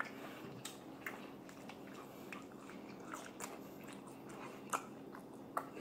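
Close-miked chewing of french fries, with faint scattered wet clicks and smacks of the mouth and a couple of sharper clicks near the end.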